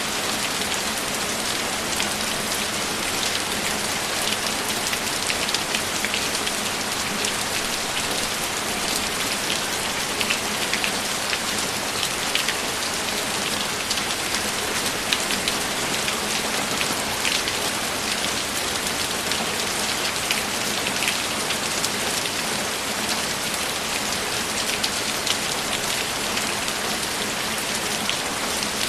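Steady rainfall, an even hiss of rain with many distinct drops pattering through it, unchanging throughout.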